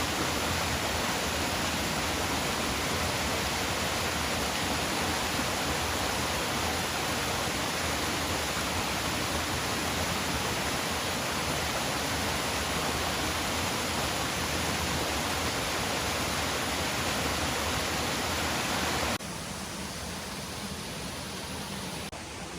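Steady rushing of a three-tiered waterfall's falling water. Near the end it drops suddenly to a quieter rush.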